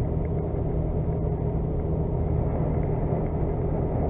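Steady engine and road rumble heard from inside a vehicle being driven.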